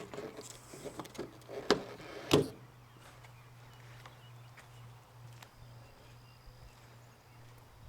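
A few sharp knocks in the first couple of seconds, the two loudest about 0.7 s apart, over a steady low hum.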